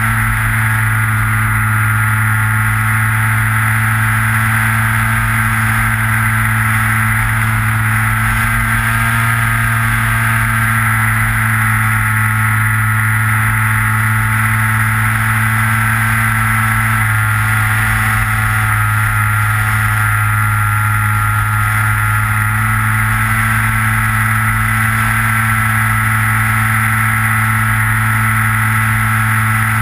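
Electric motor and propeller of a Skywalker RC plane heard from on board: a steady drone at constant throttle, with a high whine above it.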